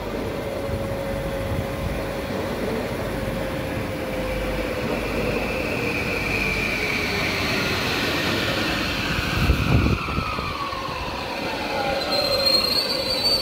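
Electric multiple-unit passenger train running past close by, with wheel-and-track rumble and several whining tones that drop in pitch as the cars go by. There is a low thump about two-thirds through and a brief high squeal near the end.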